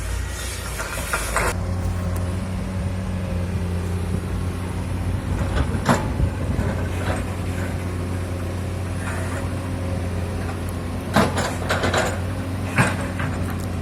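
Komatsu PC200 excavator's diesel engine running steadily, with a sharp knock about six seconds in and several more near the end.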